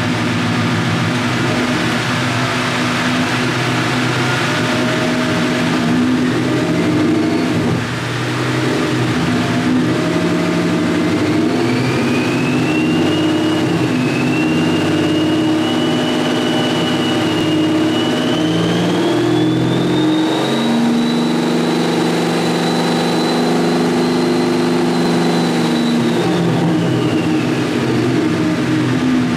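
Whipple-supercharged Ford Coyote 5.0 V8 running steadily on its first start, then held at higher revs in steps and let back down: a step-rev for the tuner's data log. A thin high whine climbs with each step and drops away as the revs come down near the end.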